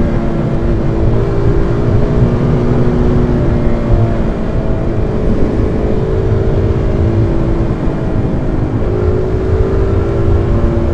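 Single-cylinder supermoto motorcycle engine running at a steady cruise, its note shifting a little in pitch a few times, heard from inside the rider's helmet under heavy low wind rumble on the microphone.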